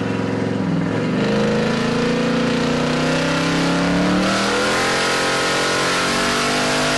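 Twin-turbocharged 427 LSX V8 of a drag-race Cadillac Escalade under hard acceleration, its pitch rising steadily, with a hiss joining about four seconds in. The pass goes into tire shake.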